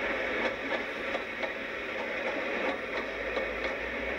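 Passenger train coaches passing close by: steady rolling noise of the train with the wheels clicking over rail joints at uneven intervals.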